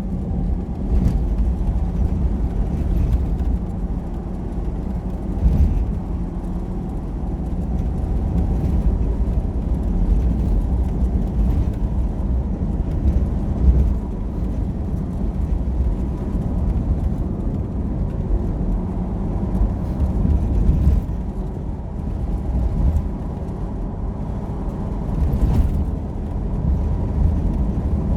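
A motor vehicle driving: a steady low engine and road rumble, with a few light knocks.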